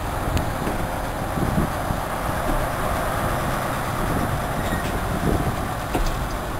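Tram-style tank engine and wooden passenger coach rolling along the platform, a steady rumble of wheels on the rails with a few short knocks.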